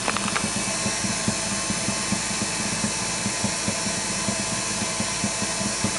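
Wood lathe running steadily, its motor and spinning workpiece giving an even hum with a regular low pulse. A few light clicks near the start.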